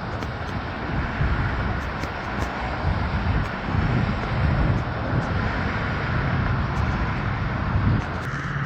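Steady road-traffic noise of passing cars, with wind rumbling on the microphone. Near the end a low steady hum comes in.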